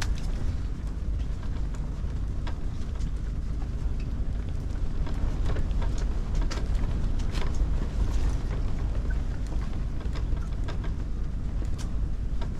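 Strong wind rumbling steadily, with scattered light ticks and taps.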